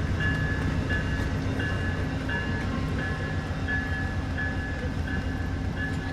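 A train passing with a low diesel rumble, while a bell rings steadily about three strikes every two seconds.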